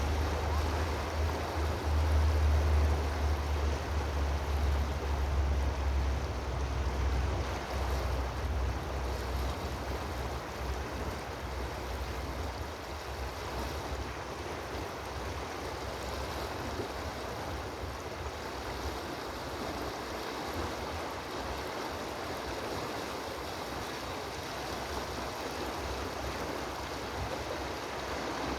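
Steady rushing of flowing water, with a low rumble of wind on the microphone that eases off about halfway through.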